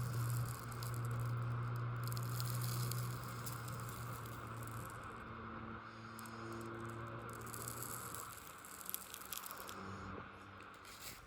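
Model diesel locomotive running on a layout track: a steady low motor hum with rolling noise above it, growing fainter as it moves away.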